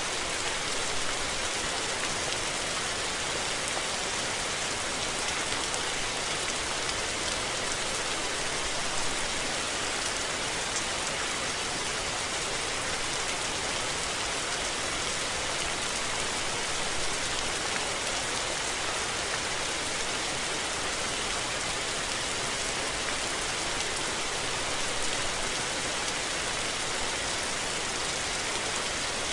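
Steady rain falling, an even hiss of drops with fine patter on surfaces.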